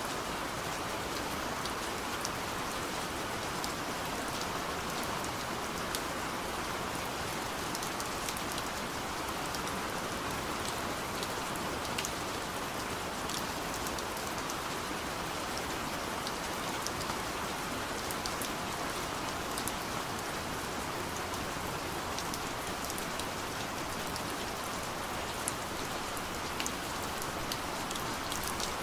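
Steady soft rain falling on a window, an even patter with many small scattered drop ticks.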